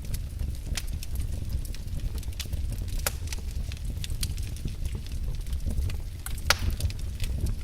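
Wood fire in a fireplace crackling: irregular sharp pops and snaps over a low, steady rumble of the flames, with one louder pop about six and a half seconds in.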